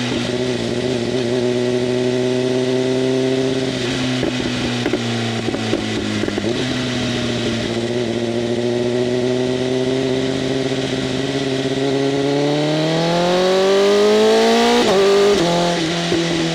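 BMW M1000RR's inline-four through an open-flap SC-Project CRT exhaust, running at steady riding revs, with some crackling about four to six seconds in. Near the end the revs climb for about three seconds and then drop sharply with an upshift.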